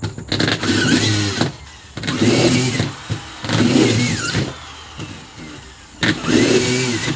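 An engine revved in four short bursts of about a second each, with pauses between them.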